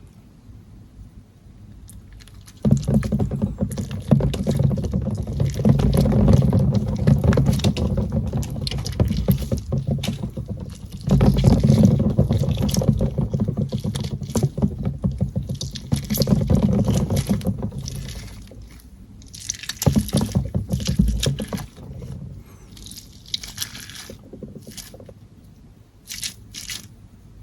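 Close-miked ASMR crackling and scratching: dense runs of fine clicks that start suddenly about three seconds in, come in long waves with short lulls, and thin out to scattered soft clicks near the end.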